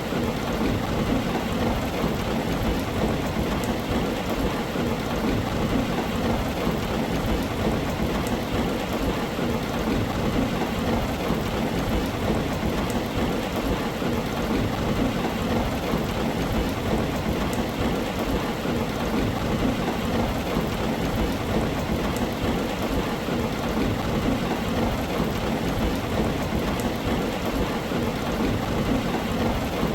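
Heavy rain drumming steadily on a tin roof, a constant hiss with fine drop ticks and no letup.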